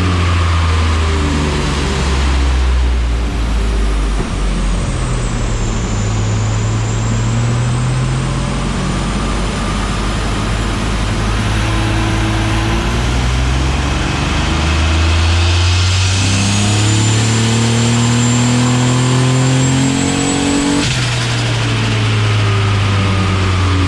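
Boosted car engine running hard on a chassis dyno, revs climbing with a rising high-pitched whine. About 21 seconds in the whine cuts off and the revs drop suddenly, then the engine builds again.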